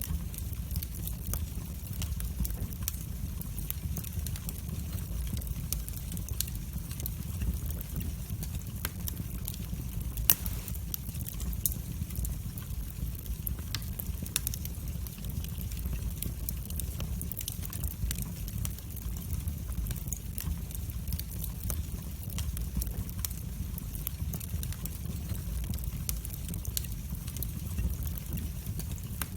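Wood fire burning in a fireplace: a steady low rumble of flames with frequent sharp crackles and pops, one louder pop about ten seconds in.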